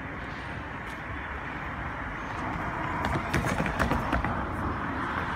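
Irish Rail DART electric train approaching slowly, a steady rumble and hum. About three seconds in, a run of sharp clicks and knocks lasts for about a second and a half and is the loudest part.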